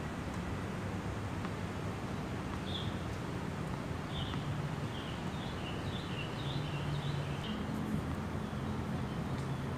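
Birds chirping in a run of short calls from about three to eight seconds in, over a steady background of outdoor noise with a low hum.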